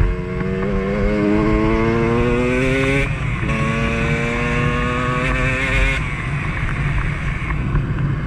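Two-stroke Beta enduro dirt bike engine under way, its pitch climbing for about three seconds, dropping at a gear change, then holding steady before easing off about six seconds in.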